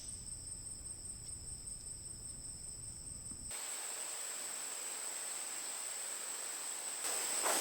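Forest insects, crickets or similar, trilling steadily at two high pitches. About halfway through, the low background rumble cuts out and a hiss takes its place. Near the end, a few soft rustling strokes begin.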